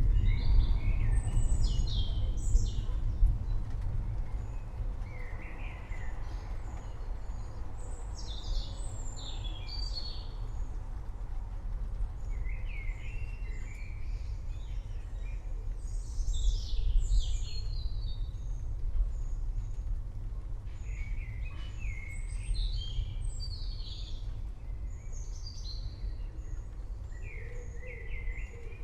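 Forest birds chirping and calling in short, scattered phrases over a low rumble of distant thunder, which is loudest at the start and fades over the first few seconds.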